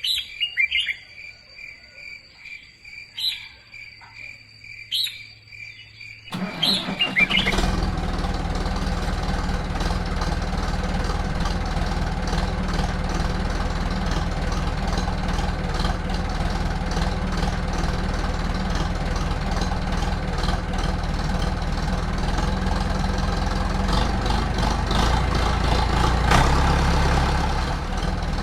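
Birds chirp over a steady high tone, then an engine starts about six seconds in and keeps running steadily.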